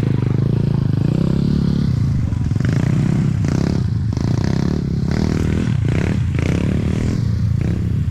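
Dirt bike engine running on a trail ride, its pitch and level rising and falling several times as the throttle is worked.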